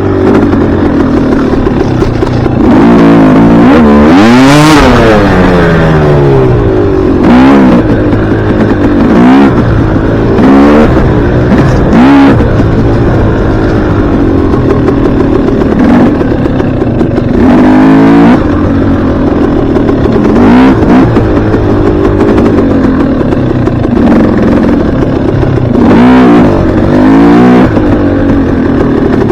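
Dirt bike engine running hard, its pitch rising and falling again and again as the throttle is opened and closed and the bike shifts through the gears.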